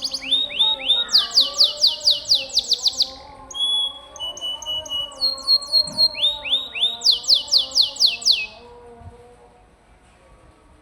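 Domestic canary singing: fast trills of repeated down-swept notes, one series after another, with a few steadier notes between, stopping about eight and a half seconds in.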